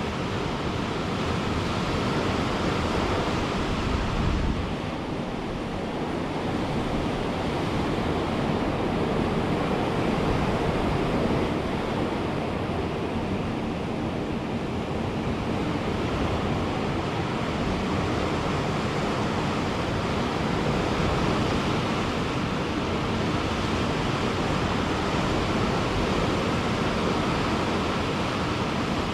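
Ocean surf breaking and washing on a beach: a continuous rushing wash that swells and eases slowly, dipping briefly about five seconds in. There is some wind on the microphone.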